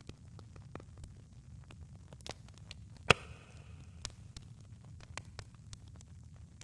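Campfire crackling: irregular sharp pops and snaps over a low steady rumble, with one loud pop about three seconds in followed by a brief hiss.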